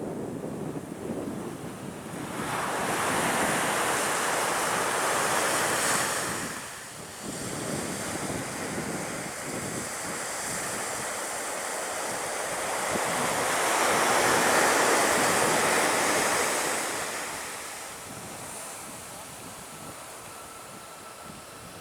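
Surf breaking on a beach: two waves swell and wash in, over steady wind noise on the microphone. A faint steady whine begins near the end.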